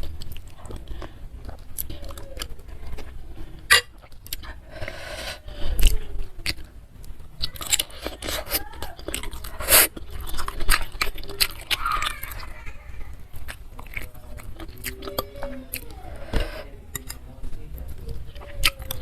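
Close-miked mouth sounds of someone eating spicy meatballs with soft chicken feet and noodles: wet chewing and smacking with sharp little clicks and crunches scattered irregularly throughout.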